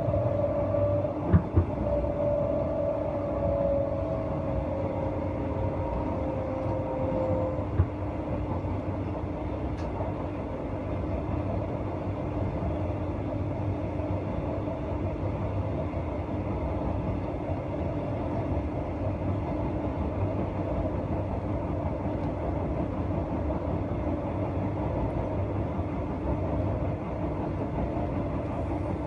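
Queensland Rail electric train running along the line, heard from inside the carriage: a steady rumble of wheels on rails. A wheel squeal fades out about seven seconds in, and there are two sharp knocks about a second in.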